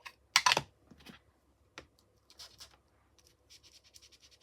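Ink colouring tool scratching over embossed cardstock in quick short strokes, with a couple of sharper scuffs about half a second in.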